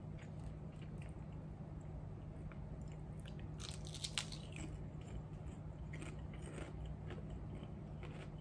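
Ruffles ridged potato chips crunched and chewed in the mouth, with sharp crackles as they break and the loudest bite about four seconds in, over a steady low hum.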